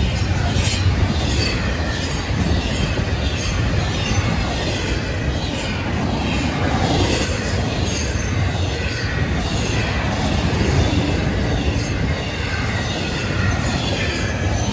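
Double-stack intermodal freight cars rolling past at speed: a steady, loud rumble and roar of steel wheels on rail, with frequent clicks and a faint high wheel squeal over it.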